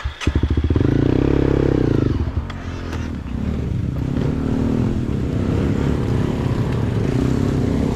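Motorcycle engine catching and running, briefly revved up then settling to a steady run.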